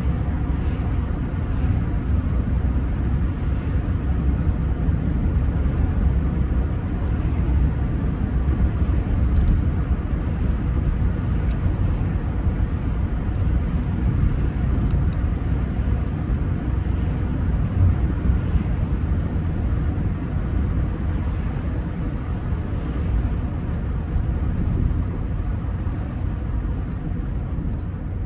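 Steady low rumble of a Rolls-Royce Silver Spirit III on the move, its 6.75-litre V8 and tyre noise heard from inside the cabin.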